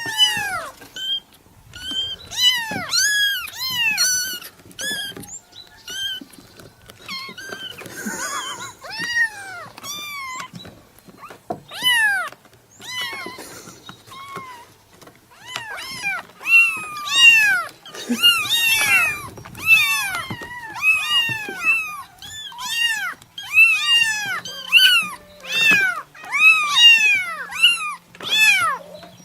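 Kittens meowing over and over in a rapid string of short, high calls, each rising then falling in pitch, several overlapping at times.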